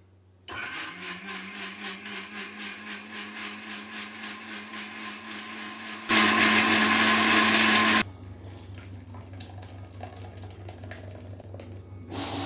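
Electric kitchen mixer grinder starting up, its motor tone rising slightly as it spins up, then running steadily. About six seconds in it runs much louder for two seconds, then cuts off abruptly. A short sharp sound follows near the end.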